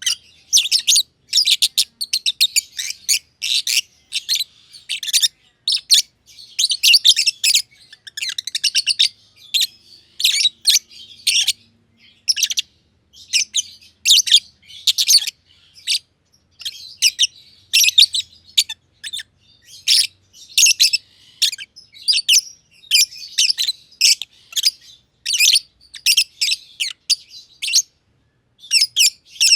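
Masked lovebirds (personata) chirping: rapid, sharp, high-pitched chirps in quick runs, with a short pause near the end.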